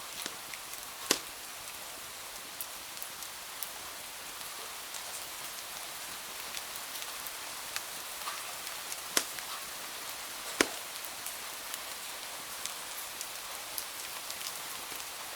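Steady rain hiss mixed with a wood fire crackling in a fireplace: many small ticks and three loud sharp pops, one about a second in and two close together around the nine- and ten-second marks.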